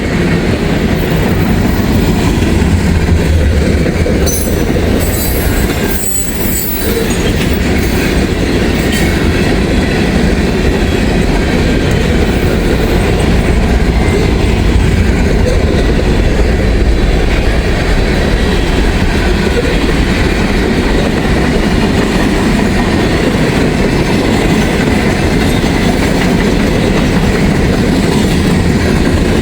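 Long freight train of railroad cars rolling past close by: a steady heavy rumble and clatter of wheels over the rails, with a few sharp metallic clanks about five to seven seconds in.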